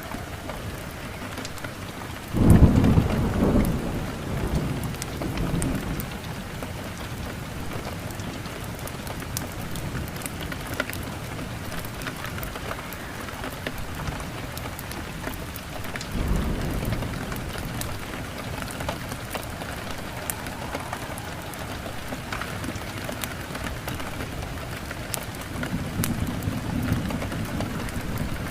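Steady rain with thunder: a sharp thunderclap about two seconds in that rumbles away over a few seconds, then softer rolls of thunder around the middle and near the end.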